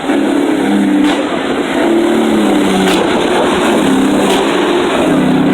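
Motor vehicle engine running loudly and revving, its pitch shifting up and down every second or so.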